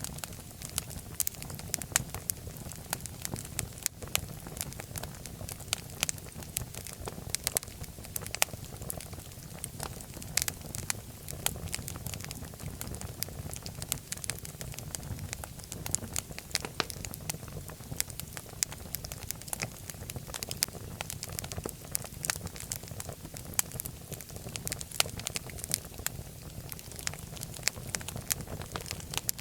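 Wood fire in a fireplace crackling, with many sharp pops and snaps scattered irregularly over a steady low rumble of the flames.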